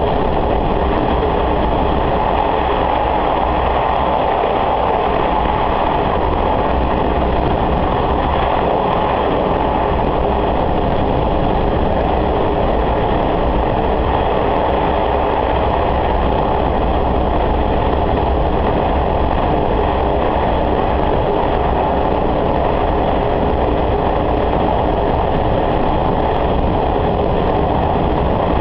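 Sanriku Railway diesel railcar running steadily along the line, heard from inside the passenger cabin: a continuous low engine hum with rail and running noise.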